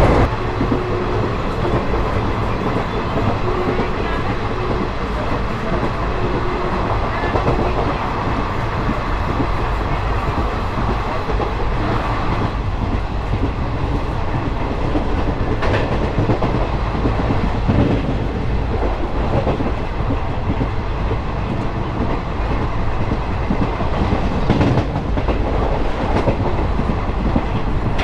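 Express train running at speed, heard from an open coach doorway: a steady rumble of wheels on rails, with a sharp wheel click over a rail joint now and then.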